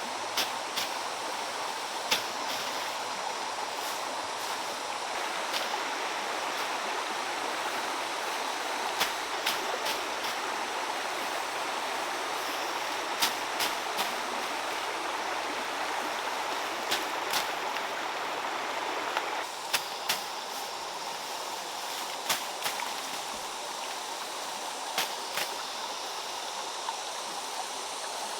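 Running water, a steady rushing flow, with scattered sharp clicks or taps. The flow drops a little in level about two-thirds of the way through.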